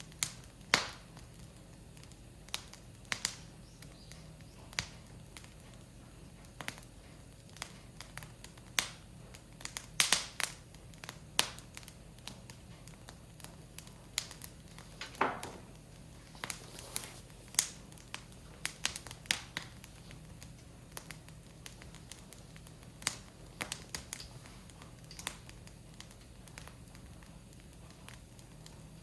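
Wood fire crackling, with irregular sharp pops and snaps from the burning firewood, a few of them much louder than the rest.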